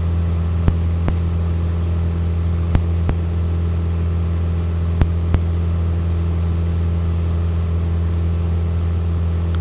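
Piper Cherokee's piston engine and propeller droning steadily in the cabin during the climb, with a low steady hum. Three pairs of short sharp clicks come about a second in, near three seconds and about five seconds in.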